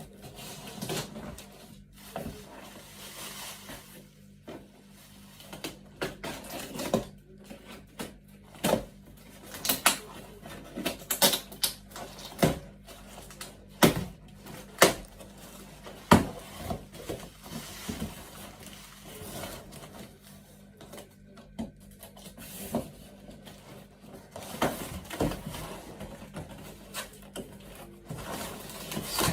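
Irregular sharp clicks and knocks, the sound of small objects and packaging being handled and set down, over a steady low hum.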